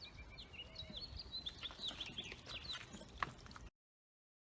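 Small birds chirping: many short, high, mostly falling notes over a faint low background rumble. The sound cuts off abruptly about three-quarters of the way through.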